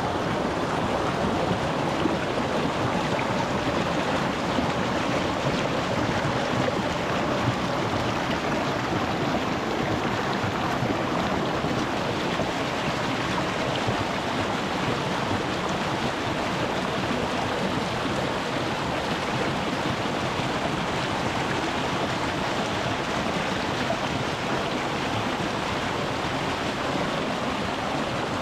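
A small rocky mountain stream rushing and babbling over stones, recorded close to the water: a steady, even wash with no pauses or changes.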